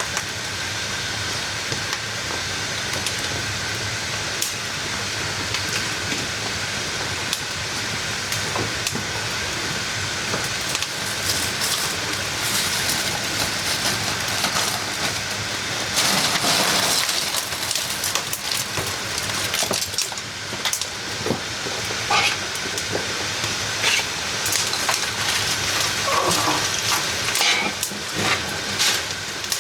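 Dough deep-frying in hot oil over a wood fire: a steady sizzling hiss with scattered pops and crackles, swelling louder for a couple of seconds about sixteen seconds in.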